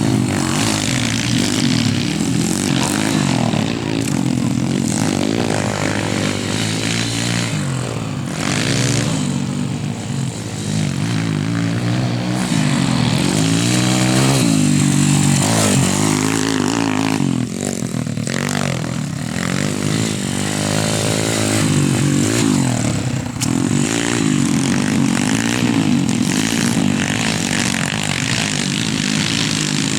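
YCF 140 pit bike's single-cylinder four-stroke engine running, its pitch rising and falling again and again as the throttle is opened and closed.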